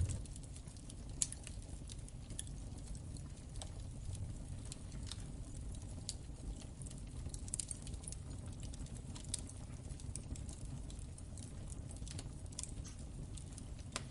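Wood fire in a fireplace crackling: irregular sharp pops and snaps over a low steady rumble of the flames, with one louder pop about a second in.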